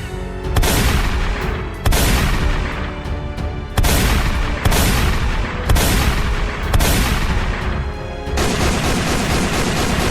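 A series of loud, sudden blast-like booms, about six of them a second or so apart. About eight seconds in, they give way to a continuous dense crackling rush like rapid gunfire.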